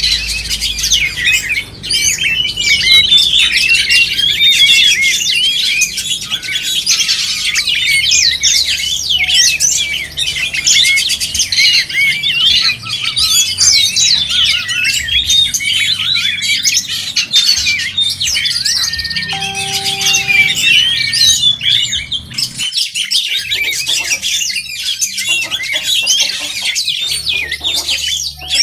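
Oriental magpie-robins singing loudly in a dense, unbroken stream of rapid, varied chirps and whistles.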